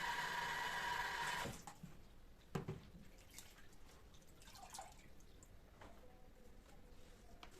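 Water running from a kitchen tap, shut off about a second and a half in, followed by one knock and a few light handling clicks.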